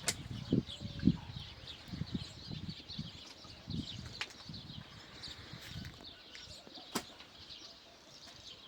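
Small birds chirping busily in high, short notes. Irregular low thuds sound during the first few seconds, and there are a few sharp clicks.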